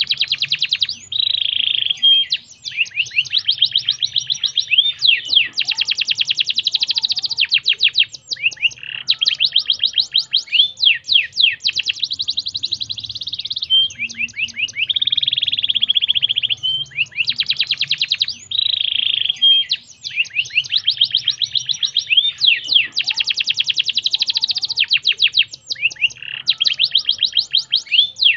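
Domestic canary singing a long, continuous song of rapid trills and rolls. The same run of phrases comes round again about every 14 seconds.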